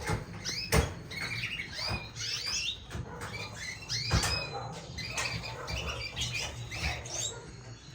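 Many caged canaries chirping and calling at once, a busy run of short chirps, with two sharp knocks, about one second in and about four seconds in.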